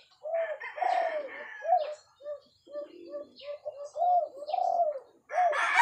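Birds calling: a run of short, repeated arching calls, two or three a second, with a louder, fuller call starting near the end.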